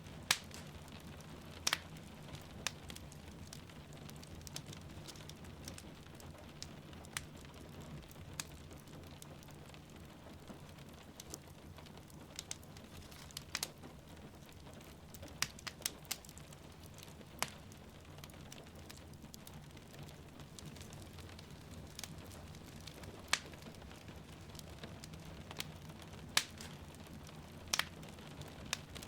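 Wood fire crackling in a fireplace, with irregular sharp pops and snaps over a steady low rumble, and a soft hiss of rain falling beneath it.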